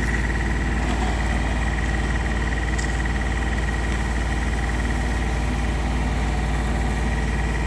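Mastic asphalt cooker's engine running steadily at a constant speed, with a steady high whine over a deep, even hum.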